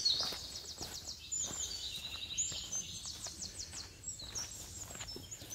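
A songbird singing high, quick trills of repeated short notes, twice, with brief whistled notes between them. Faint footsteps crunch on a gravel trail underneath.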